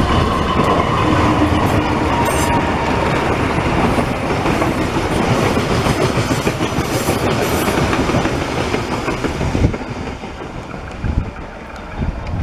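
A train's cars passing close by on a curve, wheels clattering over the rails, with a thin squeal from the wheels in the first couple of seconds. The rumble drops off sharply near the end.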